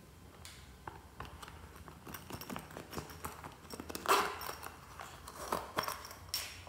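Slime being squished and kneaded by hand: a run of irregular sticky clicks and pops that grows busier, with the loudest squelch about four seconds in.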